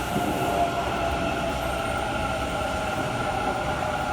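Electric train in an underground station: a steady hum with a constant whine that holds level, with no clear rise or fall.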